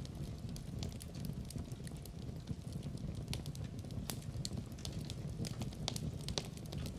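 Wood fire in a fireplace burning, with a steady low rumble and frequent sharp, irregular crackles and pops.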